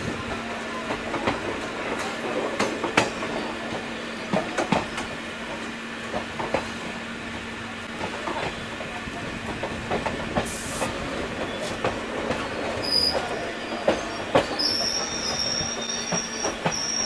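Passenger train coach running on the rails, heard from its open doorway: a steady rumble and hum with irregular sharp clicks of the wheels over rail joints. In the last few seconds high, thin wheel squeal sets in as the train takes the pointwork into the junction.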